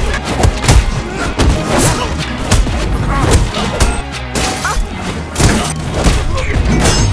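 Action-film sound mix: a string of sharp gunshots and heavy booming impacts, several a second, over a loud background score.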